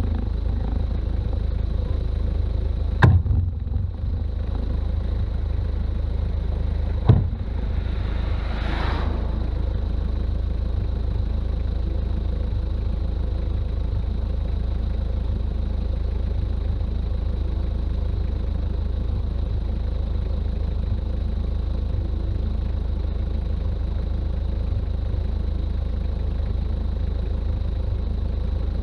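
Toyota BJ40's diesel engine running steadily while driving, a low drone with road noise. Two sharp knocks come about four seconds apart, and shortly after the second a brief rushing hiss rises and fades.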